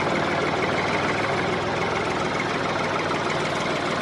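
DIY mini tractor running steadily, an even engine-like drone with a fast regular pulse.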